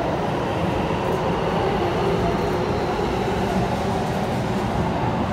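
Keikyu 2100-series electric train pulling out of the station and rolling steadily past the platform: a continuous rumble of wheels on rail with a few faint steady tones over it.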